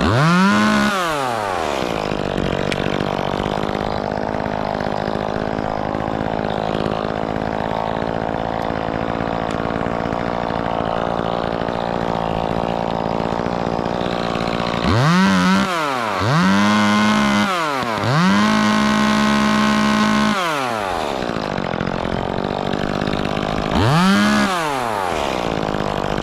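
Two-stroke chainsaw running steadily at low speed, with the throttle blipped so the engine note rises and falls quickly: once at the start, three times in a row about 15 seconds in with the last held high for about two seconds, and once more near the end.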